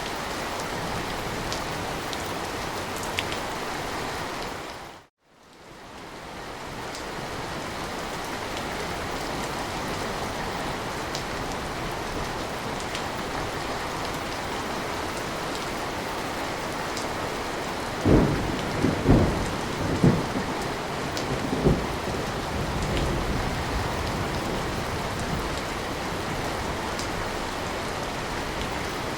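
Steady rain with a rumble of thunder in several rolling surges a little after the middle. Near the start the rain cuts out for a moment and fades back in.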